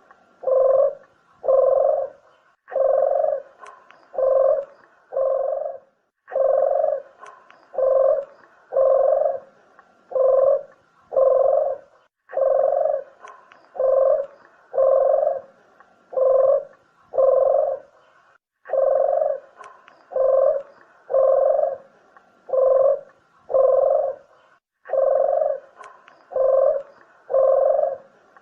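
Puter dove (collared dove) cooing: a steady series of low coos, about one a second, in runs of five or six with a short break between runs, repeated over and over like a call recording used as a lure.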